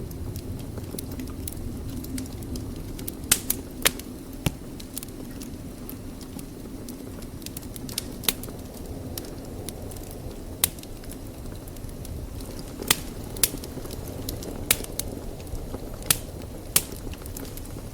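Wood fire burning in a fireplace: a steady low rumble of the flames broken by about a dozen sharp, irregular crackles and pops, several bunched together a few seconds in and more toward the end.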